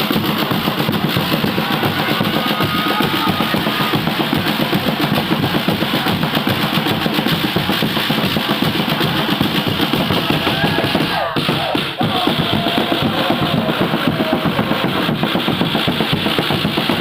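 Football supporters' drums beating a fast, steady rhythm, with the crowd chanting along.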